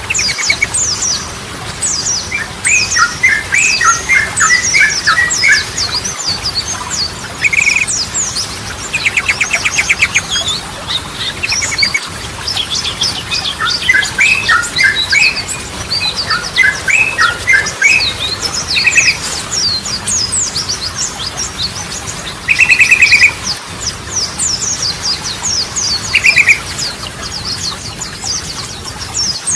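Yellow-vented bulbul (trucukan) singing: short bubbling phrases and quick trills repeated again and again over a dense backdrop of rapid, high chirping. Brief cuts come about every six seconds, where the recording loops.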